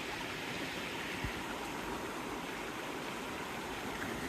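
Creek water running steadily, with one brief low thump about a second in.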